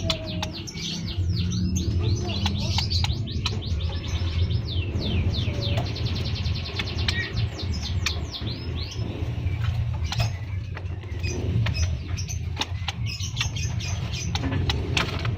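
Small cage birds (burung peking) chirping in quick runs of short, high, downward-sweeping notes, busiest in the first half, over a steady low hum.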